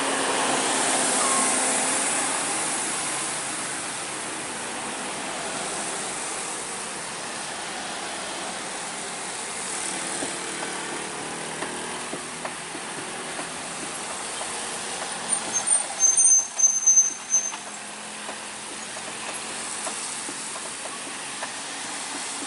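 Heavy truck engine running with road noise as traffic climbs. About sixteen seconds in comes a short burst of sharp, high-pitched squeals.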